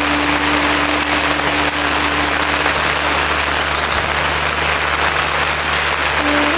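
Heavy rain falling steadily as a dense, even hiss. A thin steady tone sounds beneath it, fades out about a third of the way in, and another comes in near the end.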